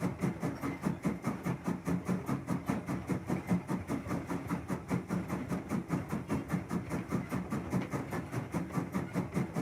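Model train running on a layout, making a fast, even rhythm of about six beats a second.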